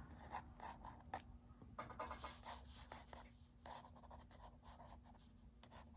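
Faint scratching of a coloured pencil sketching on paper, in short irregular strokes.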